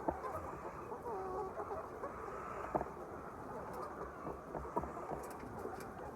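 A flock of chickens calling together in a steady, dense chatter of clucks and cheeps, with a few sharp clicks scattered through it.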